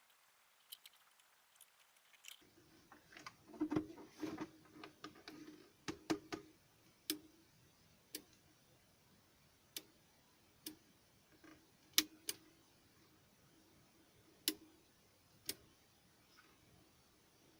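Handling noise: a cluster of rustles and taps, then single sharp clicks every second or two, the loudest about two-thirds of the way through.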